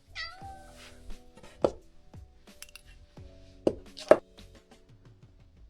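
Background music with a few sharp clinks of dishes, like cat food bowls and utensils being handled while portioning out food; three distinct knocks, the loudest about four seconds in.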